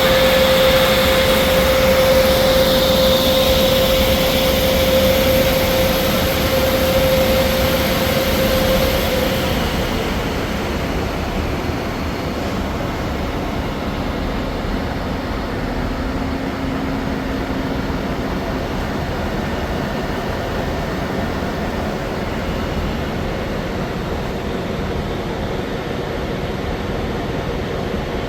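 Amtrak train passing at close range: a loud rumbling rush with a steady whine for the first nine seconds or so. The hiss then fades and the rolling noise settles into a slightly quieter, steady rumble.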